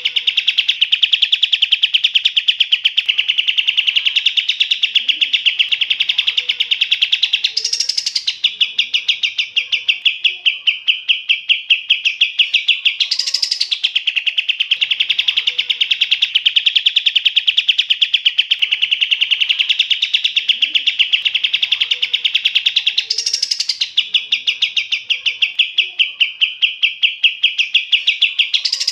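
A small songbird singing a fast, unbroken trill of high chattering notes. About every five seconds a brief higher flourish breaks in, and the same phrase repeats like a looped training recording.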